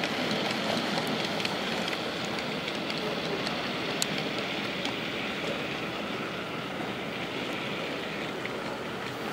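00 scale model goods train running along the track: a steady rumble of the motor and wagon wheels with scattered light clicks, one sharper click about four seconds in, slowly growing fainter.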